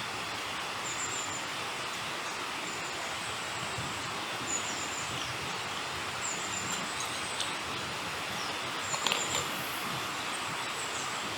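Steady forest ambience: an even hiss with a short, high chirp repeating about once a second, and a few light clicks about nine seconds in.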